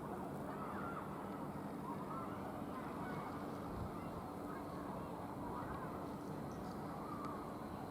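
Greater Anglia Class 755 bi-mode train standing at the platform with a steady low hum. Short wavering high-pitched calls or squeals come and go over it every second or two.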